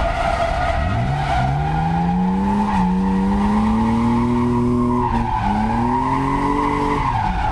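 BMW E36 Compact's swapped-in 2.5-litre M52 straight-six revving hard while drifting, its pitch climbing for a few seconds, dropping briefly about five seconds in, then climbing again. Tyres squeal throughout.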